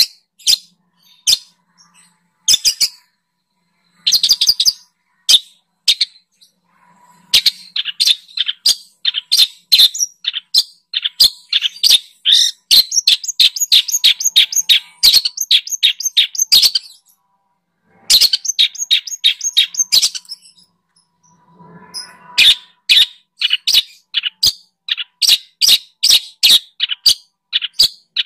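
A songbird calling in fast runs of sharp, high chirps, several a second, broken by short pauses.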